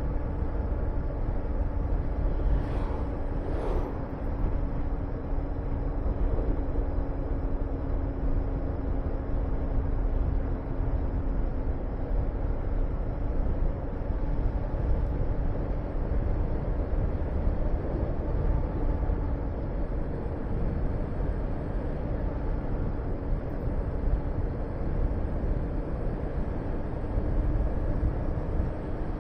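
Honda VTR250's 250 cc V-twin engine running at a steady cruise, its pitch easing down slightly over the first dozen seconds, under heavy wind rush on the microphone. A short rise and fall of hiss passes about three seconds in.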